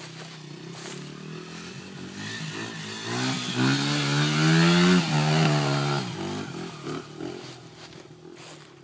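Honda 80F dirt bike's small engine revving as it climbs: the engine note rises and grows louder about three seconds in, is loudest in the middle, then fades away.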